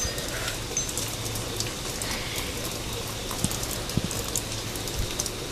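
Heavy rain pouring down through an open doorway: a steady hiss of rainfall dotted with many sharp ticks of drops striking the deck.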